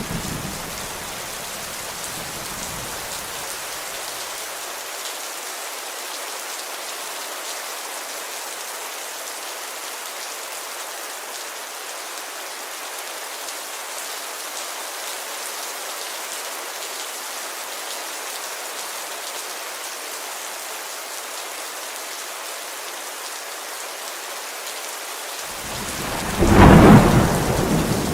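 Steady rain pattering on a window, with a low thunder rumble dying away over the first few seconds and a loud clap of thunder rolling in near the end.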